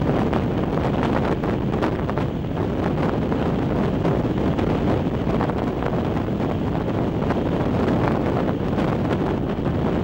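Steady rush of wind buffeting the microphone at the open window of a moving train, over the train's running noise on the rails.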